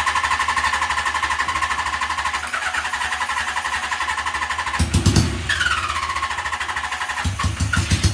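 1978 Suzuki GS750 four-cylinder engine on a home-made exhaust running just after a hard start, with a steady high whine over the exhaust note. The throttle is blipped about five seconds in, the whine falling back as the revs drop, and opened again near the end while fuel is still working its way through.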